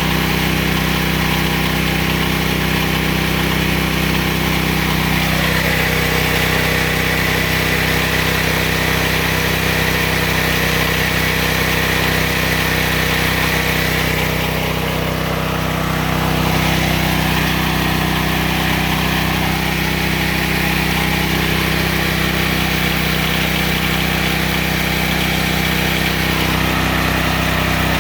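Single-cylinder 14 hp 420cc engine of a homemade bandsaw sawmill running steadily at speed, with a falling tone about five seconds in and a brief dip in loudness about halfway.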